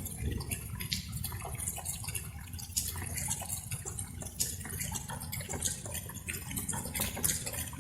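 Light rain: many scattered raindrops dripping and ticking in an irregular patter, over a steady low rumble.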